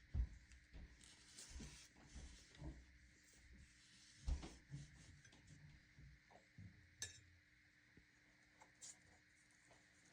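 Quiet watercolor painting: faint brush and hand handling on paper with scattered soft knocks and a few sharp clicks, the sharpest about seven seconds in.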